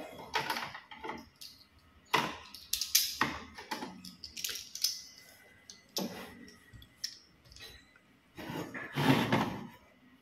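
Plastic toy trains and track pieces being handled, an irregular series of clacks, knocks and short scrapes, with the loudest clatters about two to three seconds in and again near the end.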